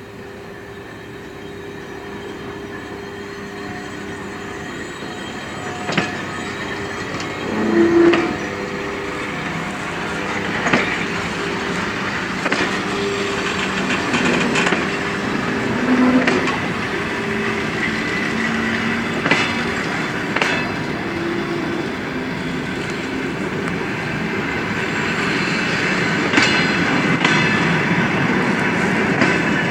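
Passenger train departing behind an EP1 electric locomotive, cars rolling past with wheels clicking over rail joints and some wheel squeal, growing louder as it gathers speed.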